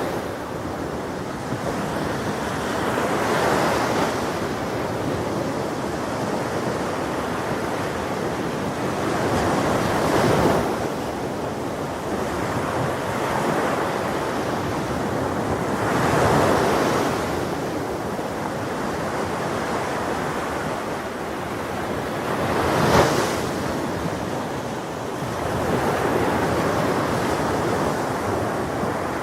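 Ocean waves breaking on a shore in a continuous wash of surf, with a surge roughly every six seconds; the sharpest break comes a little before the end.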